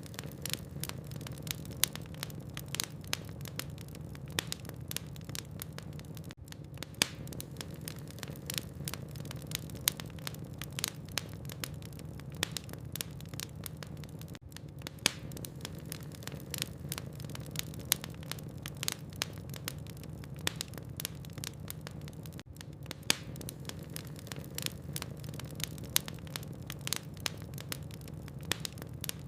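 Burning logs in a fireplace crackling: many sharp pops and snaps at irregular intervals, a few much louder than the rest, over a steady low hum.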